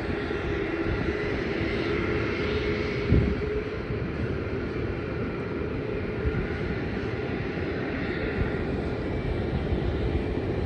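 Jet airliner engines running at a distance, a steady rumble with a faint whine held through. A brief low thump about three seconds in.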